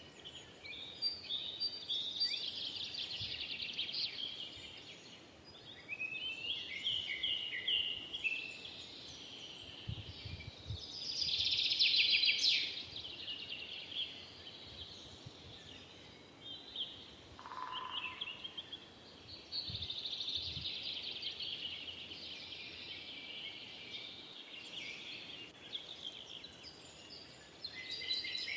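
Several forest songbirds singing, with quick overlapping high-pitched phrases and chirps and the loudest song about 11 to 12 seconds in. A single lower call sounds once near 17 seconds.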